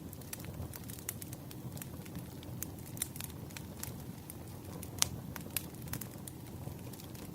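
Wood fire crackling: a steady low rumble of burning logs with irregular sharp pops and snaps, the loudest pop about five seconds in.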